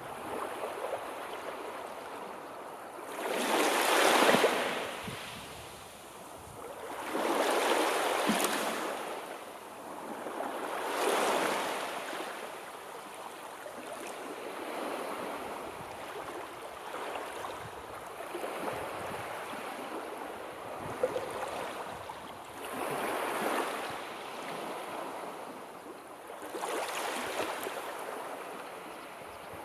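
Sea waves washing in slow surges: five or so swells of rushing hiss that rise and fall back, the loudest about four seconds in.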